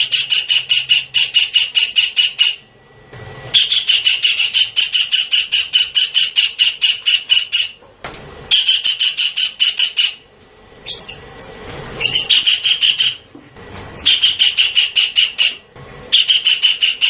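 Javan kingfisher calling: loud rattling series of rapid, harsh notes, about six a second, in repeated bouts of one to four seconds with short pauses between them.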